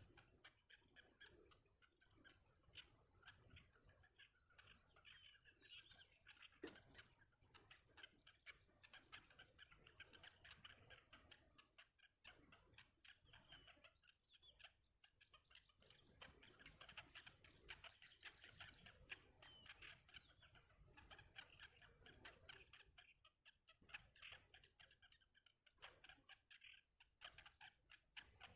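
Faint, rapid cheeping of nestlings begging for food in the nest, with a thin, steady high whine behind it.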